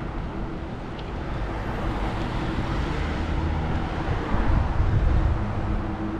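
Outdoor road noise and wind on the microphone during a bicycle ride, with a louder low rumble from about four to five and a half seconds in.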